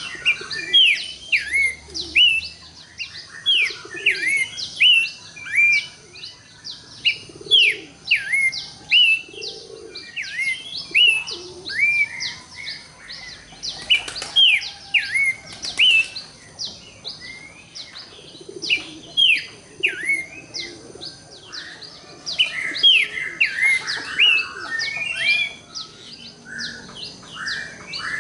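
Abbott's babbler (pelanduk semak) singing: a dense run of sharp, down-slurred whistled notes, several a second, over a steady thin high ringing, with a few soft low notes underneath.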